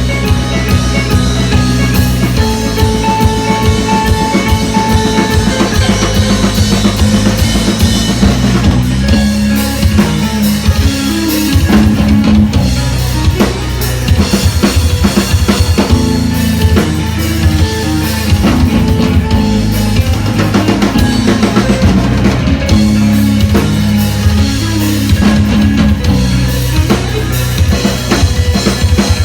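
A band playing live: a drum kit with a steady bass drum beat under guitar, continuous and loud.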